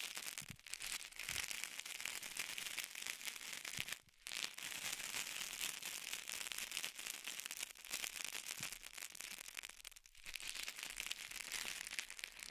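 Close-miked crackling and rustling from an ASMR trigger: a dense patter of tiny clicks, pausing briefly about four seconds in and again about ten seconds in.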